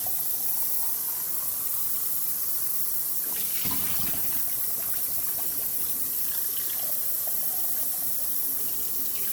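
Cold water running steadily from a kitchen tap into the sink as a whole raw chicken is rinsed under it, the stream splashing over the bird; the splashing changes briefly a few seconds in.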